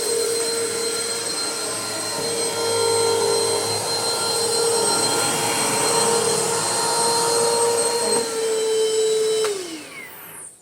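Vacuum cleaner motor running with a steady whine and rushing air, then switched off near the end, its pitch falling as it spins down to a stop.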